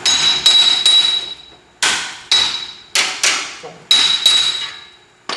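Steel hammer striking a Jeep Wrangler's front wheel hub bearing assembly to knock it loose from the steering knuckle. About ten sharp metal blows, mostly in pairs, each ringing briefly.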